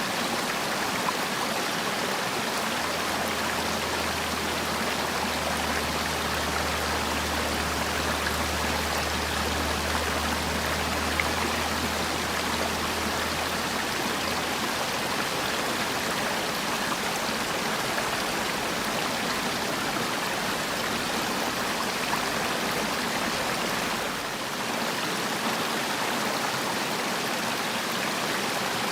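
Mountain valley stream rushing steadily over rocks, an even wash of running water. A low rumble sits underneath for several seconds in the first half.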